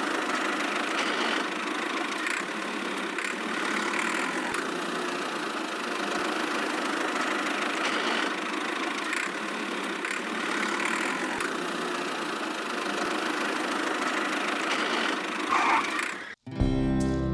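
A small motor in a homemade miniature tractor and water pump model running steadily, with faint irregular ticks. It cuts off abruptly near the end and strummed guitar music starts.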